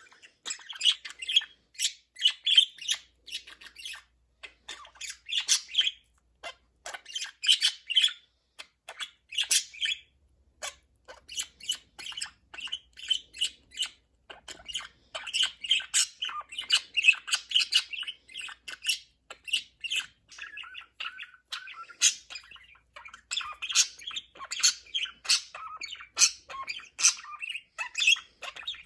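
Pet budgerigars chattering and warbling in runs of quick chirps and clicks, with a few short pauses.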